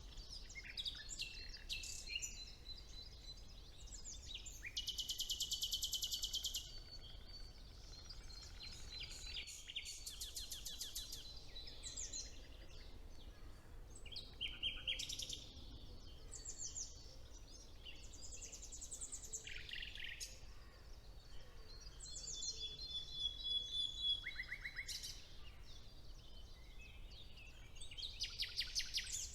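Several songbirds singing in turn, with loud, fast trills about five, ten and twenty-eight seconds in, between shorter whistled phrases. Underneath there is a faint, steady low rumble.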